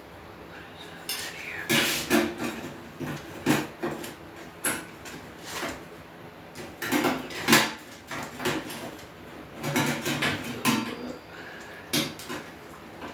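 Metal grill parts clanking and rattling as they are handled and fitted together during assembly: a string of irregular sharp metallic knocks, two of them louder.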